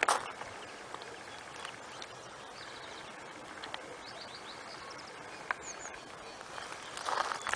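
Faint open-air ambience with a run of short, high bird chirps in the middle. Brief crunching noise right at the start and again near the end.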